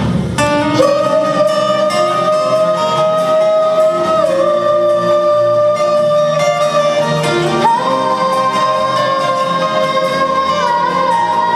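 A song with a backing track and a wordless sung line of long held notes that change pitch about every four seconds.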